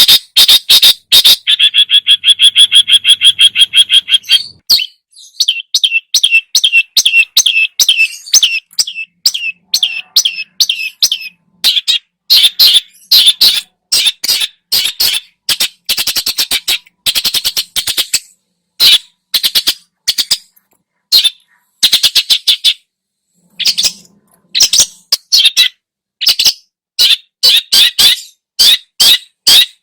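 Long-tailed shrike (cendet) singing loudly and without pause, in a rapid stream of short, sharp notes full of mimicked song. About two seconds in, it breaks into a fast, dense trill lasting some three seconds.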